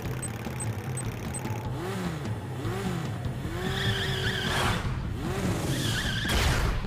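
Cartoon action sound effects: a run of swooping rise-and-fall tones about once a second, then two sharp whooshes near the end, over a low steady music bed.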